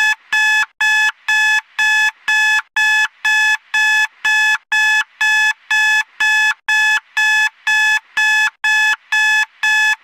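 Fan-made emergency alert system (EAS) alarm tone: a steady run of short electronic beeps, about two a second, each a chord of several high steady tones.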